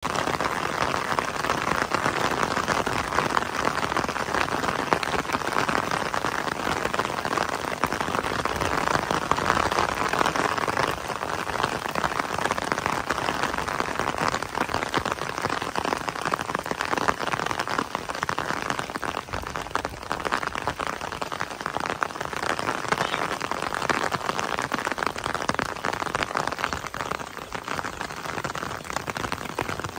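Steady rain falling, a dense patter of many drops, a little heavier for the first ten seconds or so.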